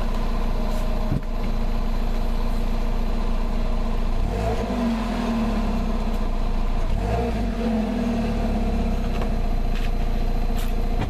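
Car engine idling, given two short throttle blips about four and seven seconds in, each a brief rise in revs that falls back to idle.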